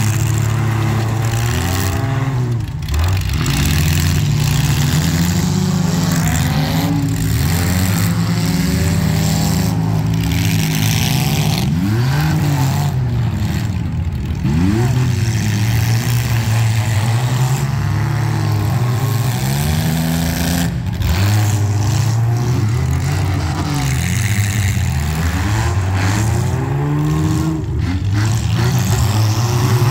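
Demolition-derby compact car engines revving up and down over and over, their pitch repeatedly rising and falling, loud and continuous.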